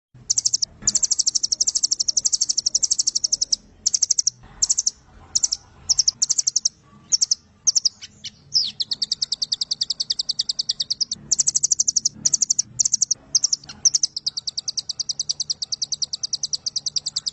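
Velvet-fronted nuthatch (rambatan) singing long, fast, high trills of rapidly repeated notes, the longest lasting several seconds, broken by short pauses and a few brief chirps.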